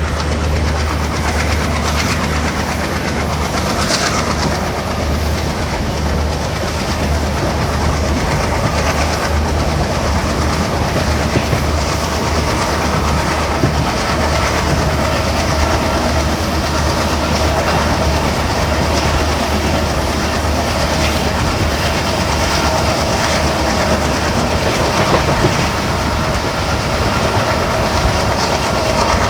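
Express passenger train running at speed: a steady heavy rumble of wheels on the rails, with clickety-clack over the rail joints.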